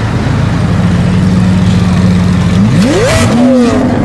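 Lamborghini Aventador's V12 with a decatted exhaust idling steadily, then a sharp throttle blip near the end: the revs climb fast and fall back, with crackles from the exhaust as they drop.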